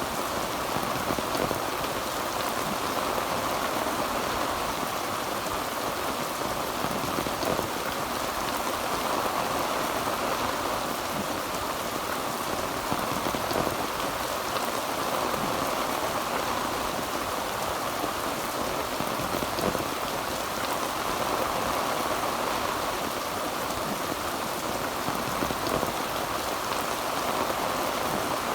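Heavy rain falling steadily on a tin roof, an even hiss with no thunderclap.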